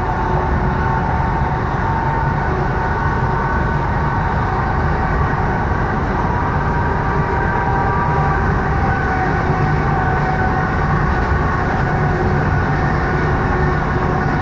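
Passenger train running at speed, heard from inside the carriage: a steady rumble of wheels on rails with a faint whine over it.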